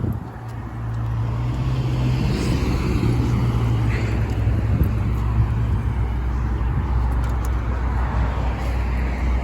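Motor-vehicle traffic running steadily close by: a low, even engine hum with the hiss of passing cars.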